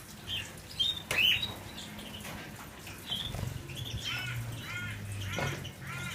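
Canaries calling: short arched chirps, repeating quickly in the second half. A sharp knock about a second in, over a steady low hum.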